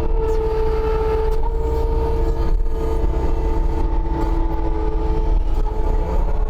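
Skid steer's diesel engine running at working revs, with a steady whine riding over a low rumble.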